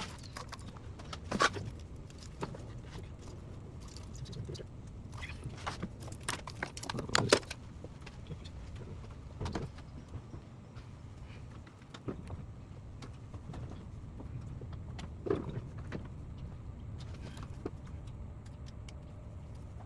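Irregular metallic clinks and knocks of hand tools and loose parts being handled while working on a car engine, with louder clanks about a second and a half in, around seven seconds in and near fifteen seconds in, over a steady low hum.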